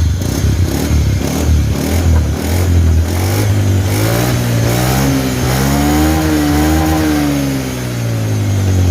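Honda Beat FI scooter's single-cylinder engine idling, then slowly revved up and eased back down, run as a test for the CVT and gearbox whine after the final-drive bearings, seal, pulley and gear oil were replaced.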